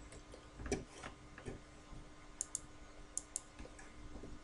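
Faint, sharp clicks of a computer mouse, several coming in quick pairs like double-clicks, over a faint steady hum.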